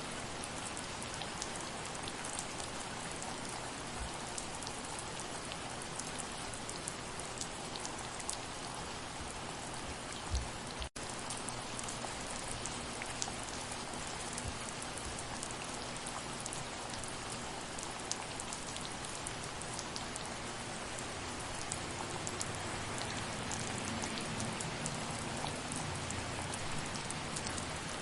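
Steady soft rain falling on a surface, individual drops ticking through a continuous hiss. About ten seconds in there is a short low thump, then a momentary cut in the sound.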